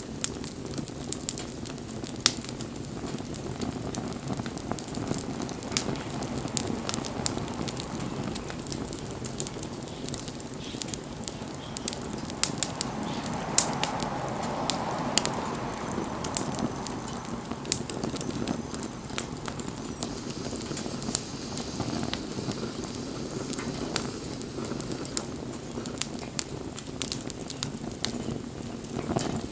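Wood campfire burning, crackling and popping irregularly over the steady low rush of the flames.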